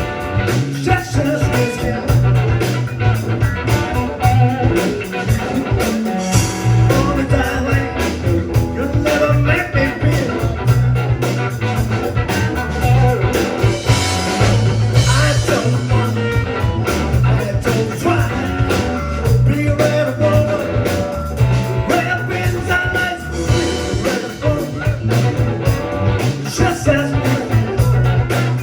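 Band music in a blues-rock style: guitar over a steady bass line and drums.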